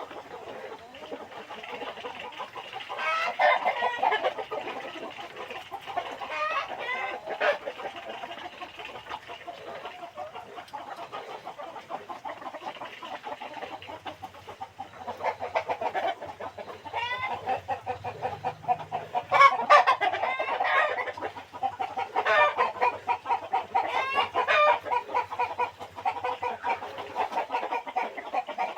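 A flock of kampung chickens clucking, many birds calling over one another at once, with louder bursts of clucking now and then.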